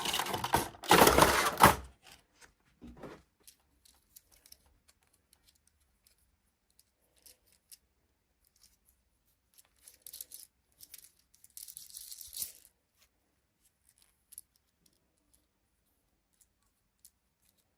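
Toy packaging being torn open by hand: loud tearing in the first two seconds, then scattered small clicks, with two more short bursts of tearing or rustling about ten and twelve seconds in.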